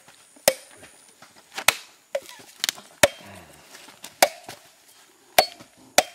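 A coconut being struck again and again to crack its shell in half: about eight sharp chopping strikes, irregularly spaced about a second apart.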